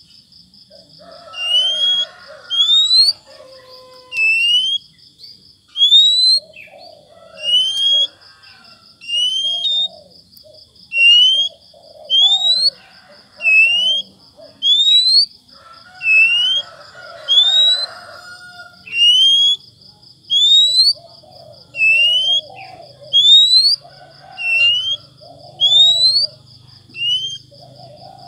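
A bird giving loud, rising whistled calls, about one a second, each sweeping up in pitch with a short hook at the top. Underneath runs a steady, evenly pulsed high trill.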